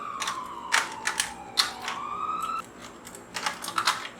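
Toy fire truck's electronic siren wailing in a slow falling-then-rising tone that cuts off suddenly a little past halfway, with several sharp clicks through it.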